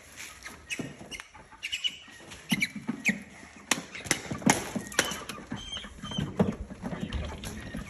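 Young Cornish cross meat chickens scrambling and flapping their wings, with rapid scuffling knocks and short high peeps scattered throughout.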